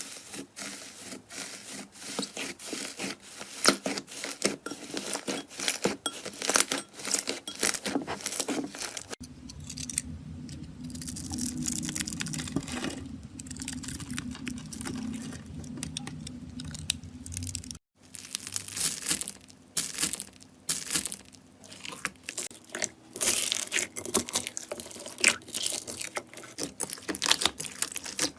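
Slime being squeezed, stretched and pressed by hand, giving a rapid, irregular stream of crackles and pops. Partway through the crackles thin out over a steady low hum, then after an abrupt cut the dense crackling returns.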